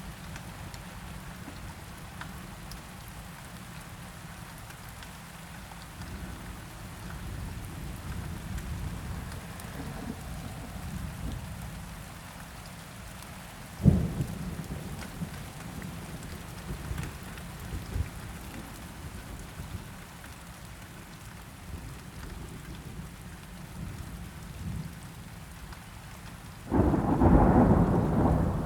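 Steady rain with thunder: low rolling rumbles, a sharp crack about halfway through, and a loud peal that starts near the end.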